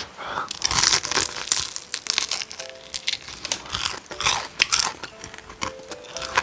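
Close-up biting and chewing of crispy Korean market-style fried chicken, the fried batter crackling in dense clusters of sharp crunches, busiest in the first couple of seconds and again about four seconds in.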